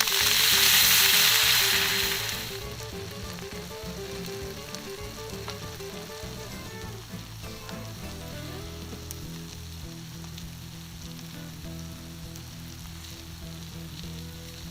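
Food sizzling and frying in a carbon steel frying pan. The sizzle is loud for the first two seconds or so, then drops to a softer, steady frying sound.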